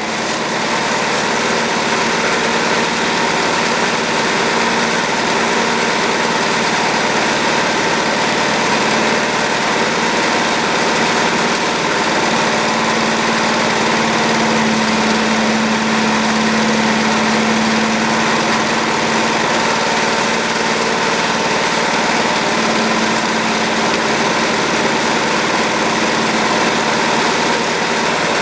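Wood-Mizer LT15 bandsaw mill running steadily under load, its band blade cutting along an oak log to take a waste slab off near the pith.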